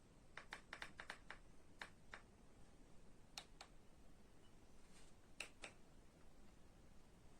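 Faint scattered clicks over near silence: a quick run of about seven clicks in the first second and a half, then single clicks every second or so.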